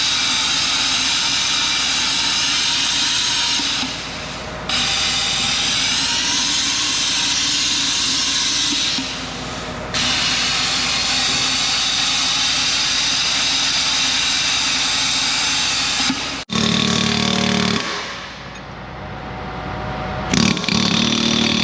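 Plasma cutter running with a loud, steady hiss, cutting out the last of an old bushing left in a worn excavator pin bore; the hiss breaks off briefly twice and cuts off suddenly near the end.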